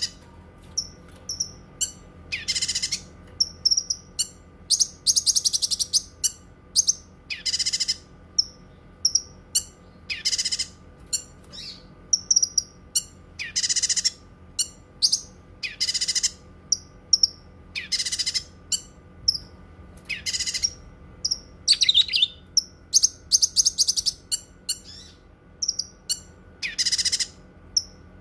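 Cucak kinoi singing: loud, high calls repeated about every one and a half to two seconds, with quick soft chirps between them.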